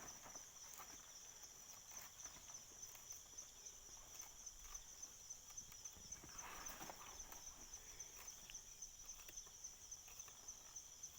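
Near silence outdoors: a steady, high-pitched insect drone, with faint scattered taps and rustles.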